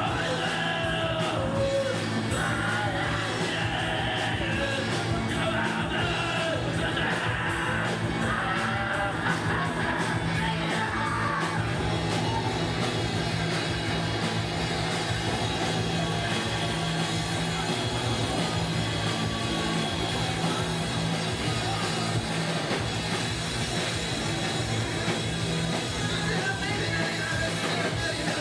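A rock band playing live: continuous loud music with a sung vocal over it for about the first twelve seconds, then mostly instrumental.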